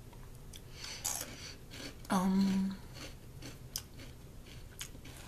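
A person chewing a crisp corn puff snack, with scattered crunches and crackles, and a short closed-mouth 'mmm' about two seconds in.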